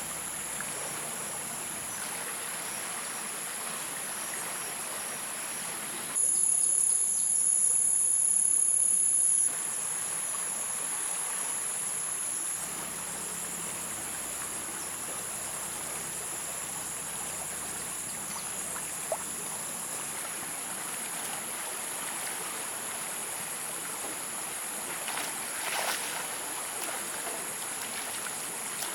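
Insects chirring steadily in a high, unbroken buzz over an even hiss. The buzz jumps louder for a few seconds about six seconds in, then drops back abruptly.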